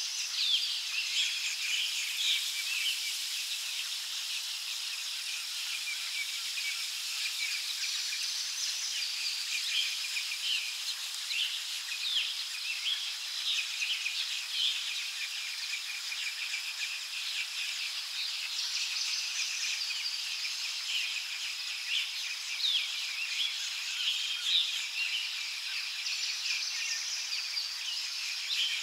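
Australian birds chirping over a steady, high-pitched insect drone, with many short calls throughout and a higher buzz that swells briefly three times.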